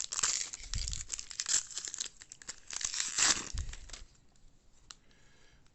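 Wrapper of a baseball card pack crinkling and tearing in two loud bursts of rustling, with a couple of dull bumps, then quieter handling after about four seconds.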